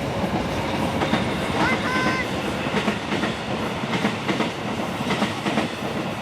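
Amtrak Vermonter passenger train passing close by: a steady rumble of the cars with repeated clicks of the wheels over rail joints. A brief high tone sounds about two seconds in.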